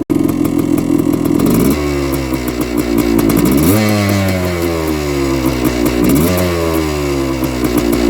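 1978 Yamaha IT250's two-stroke single-cylinder engine running just after a hard cold start and warming up. It runs at high revs, drops back about two seconds in, then is blipped up twice, near four and six seconds in, the revs sagging slowly back down each time.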